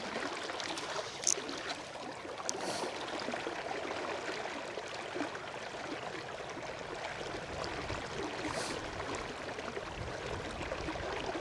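River water running steadily over a riffle, with a few faint high ticks.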